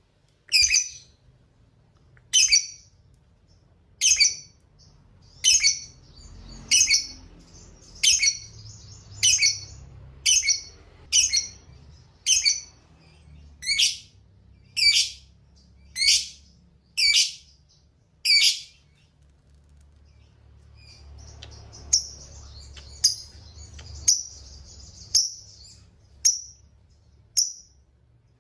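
Lovebird calling: a run of loud, sharp, high shrieks about once a second, with a softer unbroken chatter beneath them in two stretches. The calls pause for a few seconds about two-thirds of the way through.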